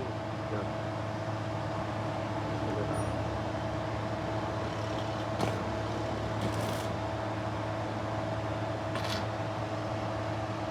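Steady machine hum holding a constant pitch, with three short hissy bursts in the second half.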